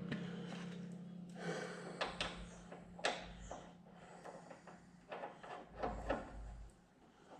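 Scattered metal clinks and knocks from handling the just-removed mower blades and their bolts. A steady low hum fades away over the first few seconds.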